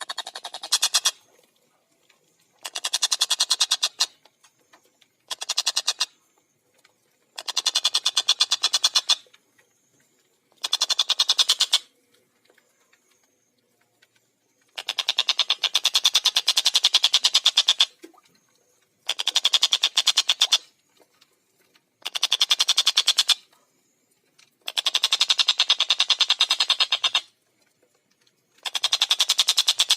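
Tengkek buto kingfisher calling in rapid, tightly spaced chattering bouts. Each bout is a fast run of repeated harsh notes lasting one to three seconds, with short pauses between about nine such bouts.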